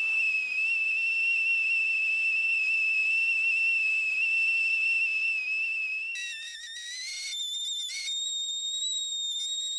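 Stovetop kettle whistling at the boil, a sharp, steady high whistle. About six seconds in the whistle turns unsteady, dipping in pitch and then jumping higher.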